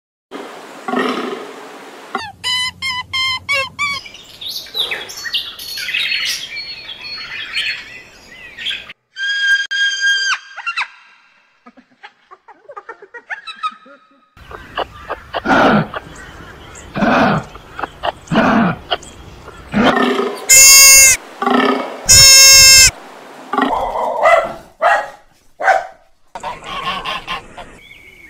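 A run of different animal calls and cries, one after another with short gaps, including two very loud, long high-pitched calls about two-thirds of the way through.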